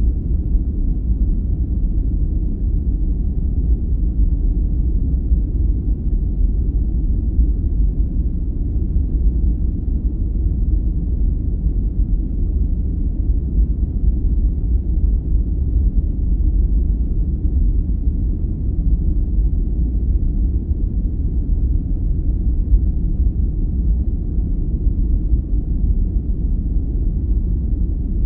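Steady deep, low rushing noise of a sleep-aid noise track (sold as white noise), even and unchanging throughout.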